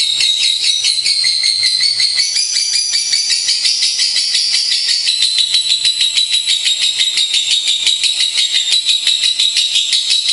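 Lovebirds singing a fast, continuous, high-pitched chatter of rapid chirps, many to the second, without a break.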